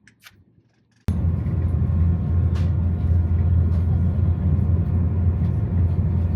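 A moving vehicle heard from inside: a steady, loud low rumble with road or track noise. It starts abruptly about a second in, after near quiet.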